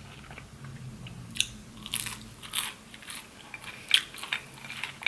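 A person biting and chewing crunchy food close to the microphone, with irregular crisp crunches from about a second and a half in.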